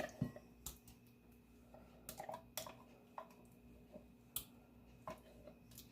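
Kitchen utensils and containers being handled: scattered light clicks and knocks at irregular intervals, quiet over a faint steady hum.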